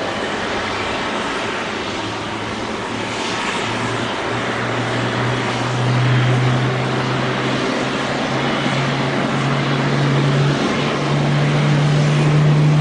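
Airbus A350-941's Rolls-Royce Trent XWB jet engines running: a loud, steady rushing noise with a low hum that rises in pitch in steps from about four seconds in.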